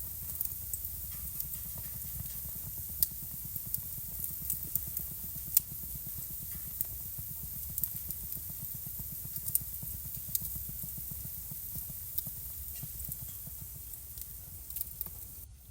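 Wood fire burning in a fireplace: irregular sharp crackles and pops, a few louder snaps, over a steady hiss and low rumble of the flames. The sound briefly drops out near the end.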